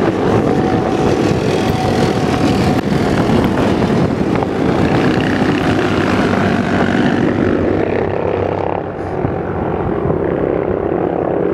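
Stream of motorcycles riding past, many engines running at once in a steady, loud drone of overlapping engine notes. The sharper, higher part of the sound fades about two-thirds of the way through.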